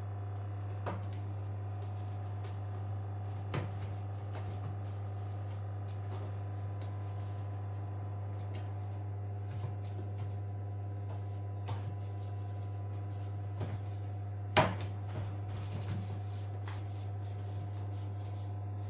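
Scattered clicks and knocks of hands and tools working on a washing machine, over a steady low hum, with one louder knock about three quarters of the way through.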